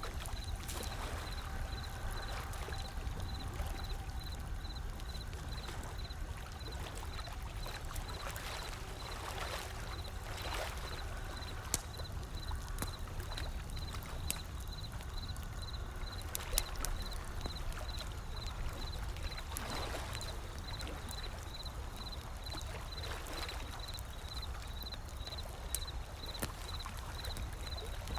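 Wood fire crackling with scattered sharp pops over a steady low rumble of ocean waves rolling in, the surf swelling a couple of times. A faint high-pitched tone pulses evenly underneath.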